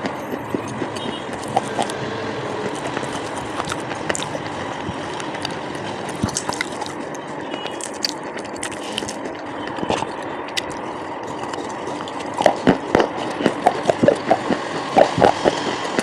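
Close-miked crunching as brittle coloured slate-pencil bars are bitten and chewed, sharp cracks over a steady hiss. The crunches come thicker and louder in the last few seconds.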